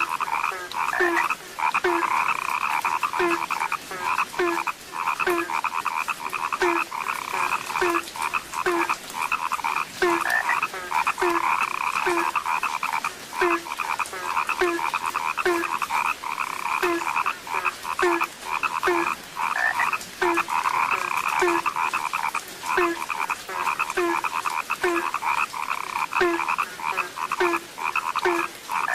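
A dense, continuous chorus of frogs croaking, with one deeper call repeating steadily about three times every two seconds beneath the higher chorus.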